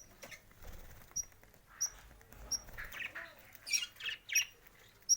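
Pet bird calling: short high chirps repeated about every 0.7 s, with a few louder, harsher squawks in the middle.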